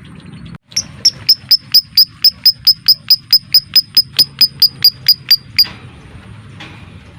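Lovebird giving a long run of sharp, shrill chirps, about four or five a second, all on much the same high pitch; the run stops abruptly about five and a half seconds in. Fainter scattered calls follow.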